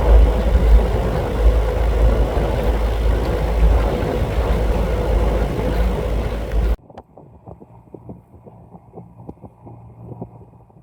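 Narrowboat's engine running under way, with heavy wind rumble on the microphone. About seven seconds in, it cuts off abruptly to a much quieter, muffled background with faint ticking.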